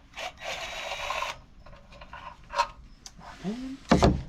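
Hand ratchet clicking rapidly for about a second as a bolt is spun out during an engine teardown, then a few scattered clicks and a loud clunk of metal near the end.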